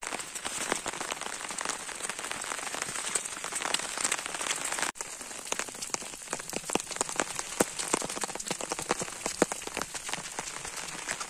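Steady rain falling, with many sharp, irregular drop impacts close by.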